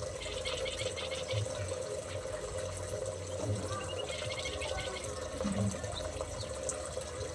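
Small aviary birds chirping in two short rapid bursts, about a second and a few seconds in, over a steady running-water sound.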